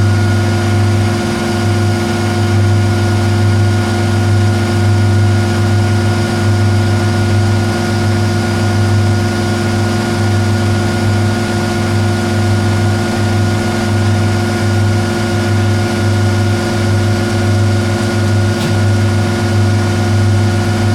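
Metal lathe running steadily under power, a loud even motor-and-gear hum with several steady tones, during the final turning cut on a screw blank; it begins to wind down right at the end.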